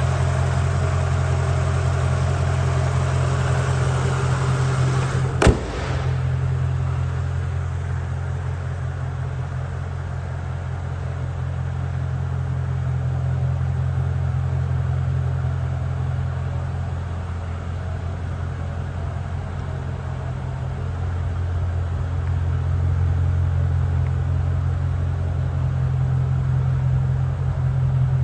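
2003 Mercedes-Benz SL500's 5.0-litre V8 idling steadily, swelling and fading slightly in loudness. One sharp knock about five seconds in.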